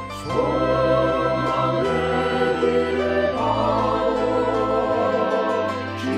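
Choir singing a sacred song with organ accompaniment; the voices come in about a third of a second in over sustained organ chords.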